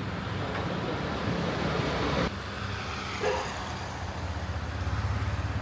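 Steady road-traffic rumble and hiss, with an abrupt change about two seconds in.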